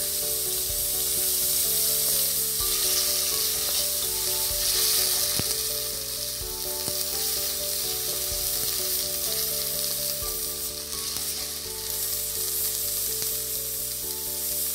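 Onions, tomato and green chillies sizzling in hot oil in an aluminium pot, stirred now and then with a wooden spatula. A steady frying hiss.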